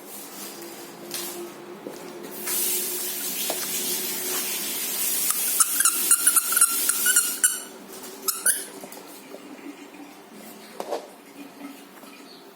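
A plush dog toy's squeaker squeezed, giving a run of pulsing squeaks about six to seven seconds in, amid loud rustling from handling of the toy and its packaging.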